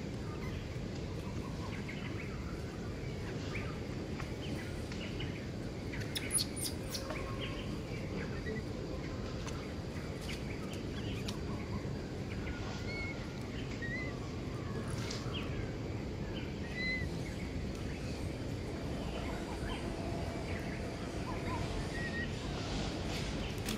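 Outdoor ambience: a steady low background rumble with scattered short bird chirps, and a few sharp clicks about six seconds in.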